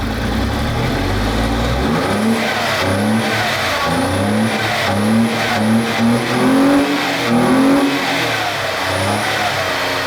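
Audi 2.8 V6 engine running, idling at first, then blipped up and back down repeatedly from about two seconds in. It runs not quite as well as wanted yet, with leaks in the exhaust.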